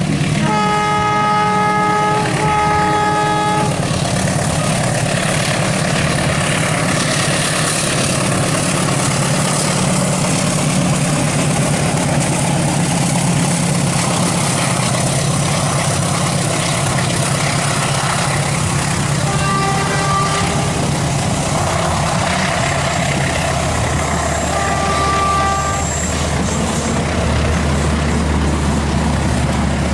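Diesel train horn sounding two long blasts at the start and two shorter toots later, at about twenty and twenty-five seconds in. Underneath is the steady rumble of a train's engine and wheels on the rails.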